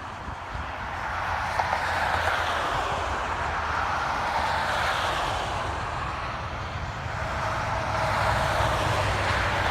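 Trucks driving past one after another: a steady low engine rumble with tyre and road noise that swells as each one passes.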